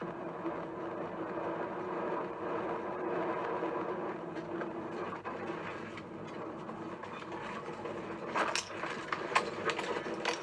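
Steady vehicle running and road noise, with a few sharp clicks or knocks near the end.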